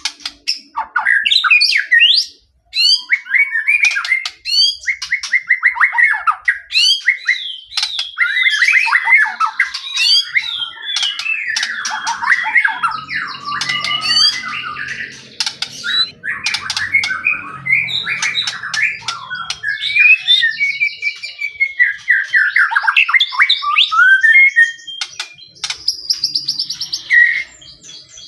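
White-rumped shama (murai batu) singing a loud, fast and varied song: rapid whistled phrases, trills and sharp clicking notes that run on almost without a break, pausing only briefly a few seconds in.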